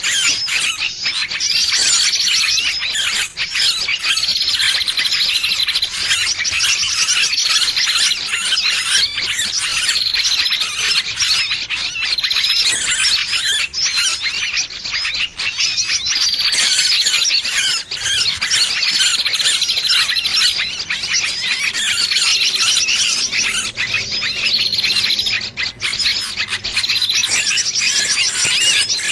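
Distress calls of a trapped bird, used as a bird-lure sound: continuous, shrill squealing and chattering, with short falling notes repeating every second or two.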